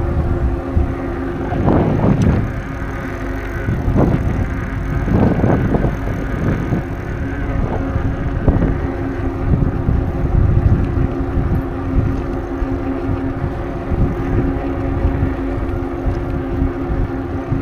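Ride noise from a moving bicycle: wind buffeting the microphone in uneven gusts, over a steady hum that holds throughout.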